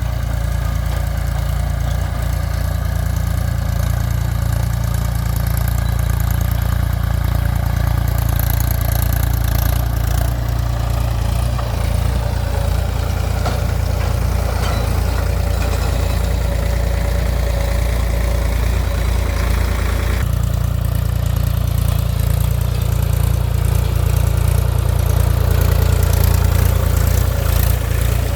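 Mahindra 275 DI TU tractor's three-cylinder diesel engine running steadily, with a shift in its low drone about twenty seconds in.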